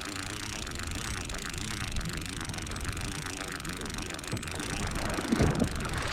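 Fishing reel being wound in while playing a hooked pollack, a fast whirring tick of the reel's gears over boat and wind noise, with a louder low knock about five and a half seconds in.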